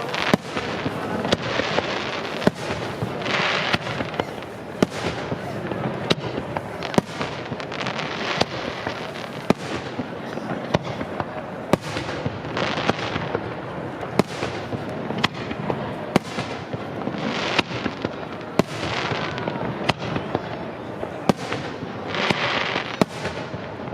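Fireworks display at close range: sharp shell bursts about once or twice a second over continuous crackling, with louder swells of crackle a few times.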